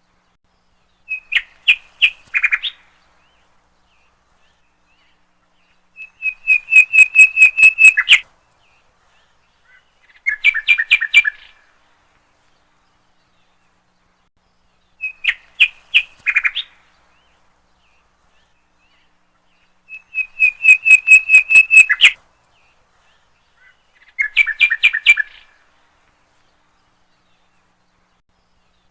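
A songbird singing in short phrases of rapid repeated chirps, each phrase one to two seconds long with silent gaps between. The same three phrases come round twice, as in a looped recording.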